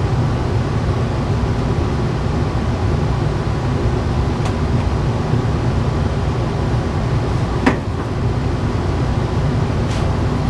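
A machine running steadily, with a motor-like hum and whirr, and a few light clicks. One sharper knock comes about three quarters of the way through.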